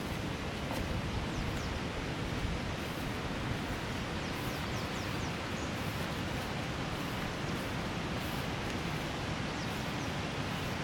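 Waterfall: rushing water making a steady, even roar, with a few faint high chirps over it.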